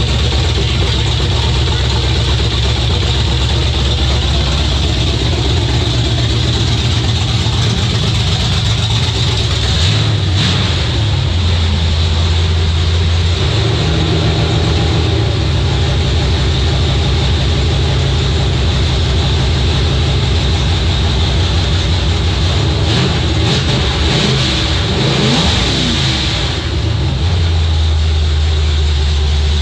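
Truck engine running steadily. The engine note shifts about a third of the way in, and the engine is revved up and down a few times about three-quarters of the way through.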